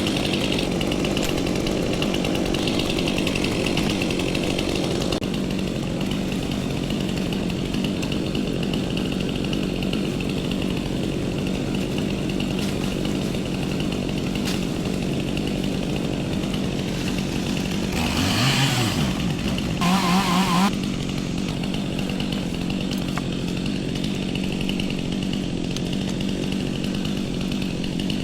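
Chainsaw running steadily at high revs, as when cutting wood. About two-thirds of the way through it briefly rises in pitch and runs louder for a few seconds, then settles back to the same steady note.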